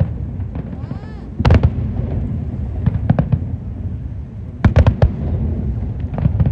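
Aerial fireworks display: shells bursting in sharp bangs that come in clusters about every one and a half seconds, over a steady low rumble.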